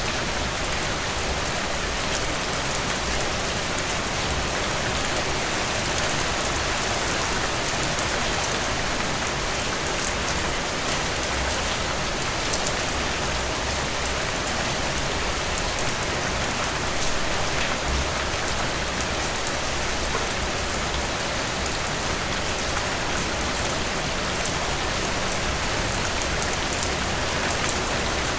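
Steady rainfall with dense pattering of drops on a surface, even in level, with no thunder.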